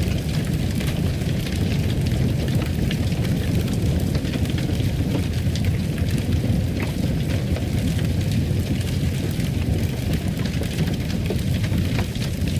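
Fireplace fire burning: a steady low rumble with many small crackles and pops scattered throughout.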